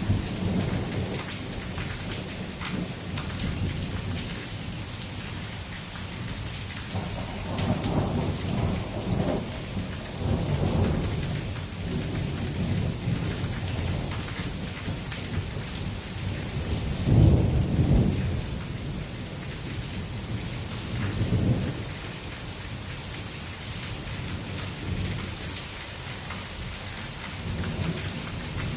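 Heavy rain falling steadily with several rumbles of thunder rolling through, the loudest about two-thirds of the way in.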